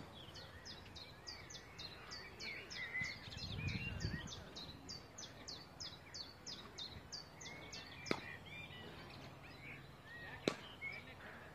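A songbird repeating a quick, high, down-slurred note about three times a second for several seconds, over outdoor background noise. Two sharp knocks come near the end.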